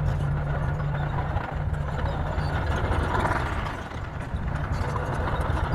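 A bulldozer's heavy diesel engine running steadily as a low drone, easing briefly about four seconds in.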